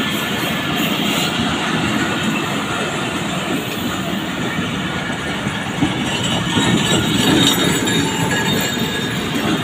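Railway train at a station platform, a steady noise of the railway cars and their wheels on the rails.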